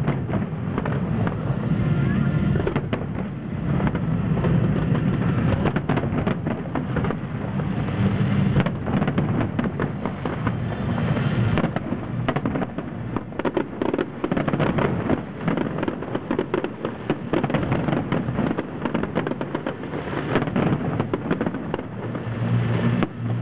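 Aerial firework shells bursting in quick, overlapping succession, a dense run of bangs and crackles with no break.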